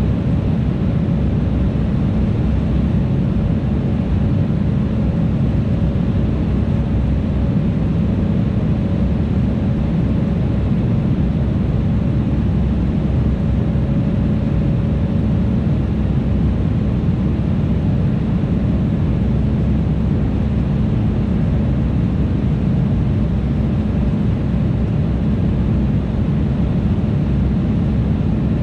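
Steady cabin noise of an Embraer E175 airliner in flight: the deep roar of its turbofan engines and the rush of air past the fuselage. A faint steady hum rides over it and fades out about halfway through.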